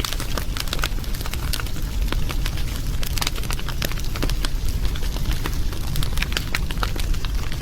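Wood fire crackling: dense, irregular sharp crackles over a steady low rumble of the flames.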